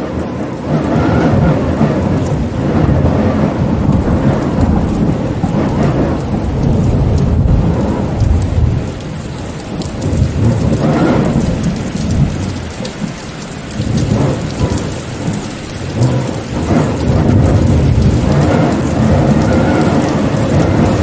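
Heavy rain falling steadily, with a deep rumble underneath that swells and eases, dropping away twice in the middle before building back up.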